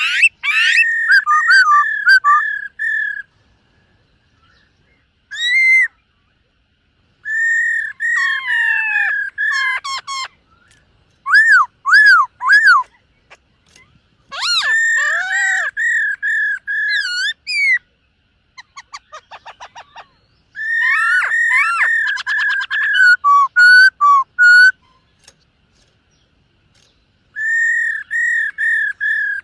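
Black-throated laughingthrush singing: runs of loud, clear whistled notes repeated in quick succession, phrase after phrase, with short silent pauses between them and a fainter rapid chatter about two-thirds of the way through.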